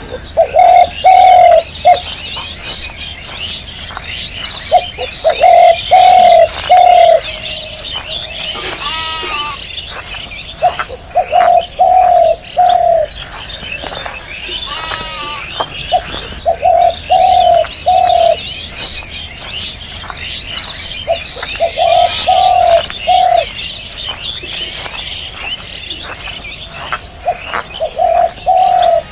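A dove cooing in phrases of three or four low notes, repeated about every five to six seconds, over a steady chorus of small birds chirping.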